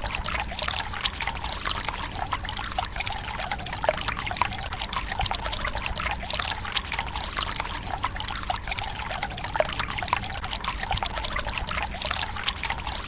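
Water running steadily from a bamboo spout into a Japanese tsukubai stone basin: a continuous pouring trickle with many small splashes and drips.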